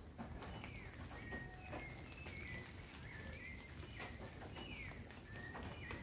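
Small birds chirping: short whistled notes, some sliding downward, repeating several times a second, over a steady low rumble of city background.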